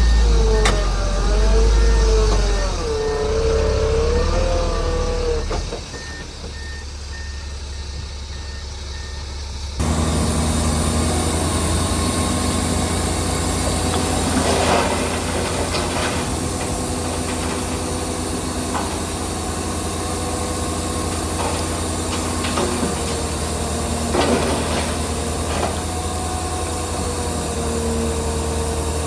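Heavy diesel earth-moving machinery running. The engine pitch rises and falls over the first few seconds. After an abrupt cut about ten seconds in, an engine runs steadily, with a few short knocks.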